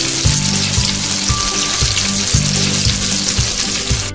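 Oil sizzling loudly around flour-coated chicken and oat cutlets shallow-frying in a pan. Background music with a steady beat plays along.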